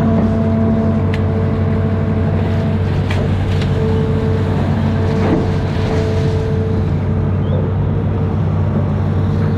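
Amphibious excavator's diesel engine running steadily at work, with held tones that come and go over it and several short knocks.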